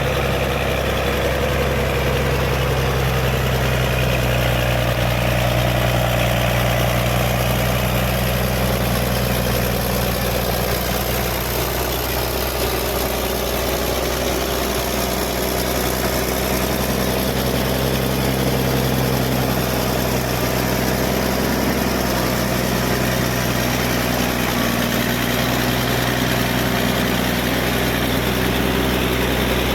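Caterpillar D6D bulldozer's diesel engine running steadily with a deep, even drone, its pitch shifting slightly about twelve seconds in.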